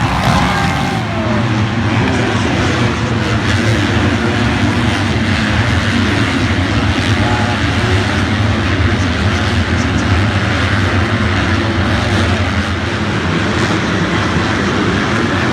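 Loud, steady engine drone that holds nearly the same pitch throughout.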